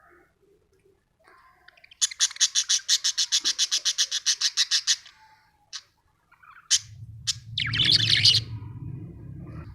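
Budgerigar chirping: a rapid run of about nine short chirps a second for some three seconds, then a few single sharp chirps and a longer scratchy call near the end. A low rumble sits under the last few seconds.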